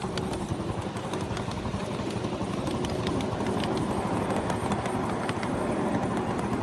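A 7½-inch gauge miniature train rolling along the track: a steady rumble of wheels on rail with scattered light clicks.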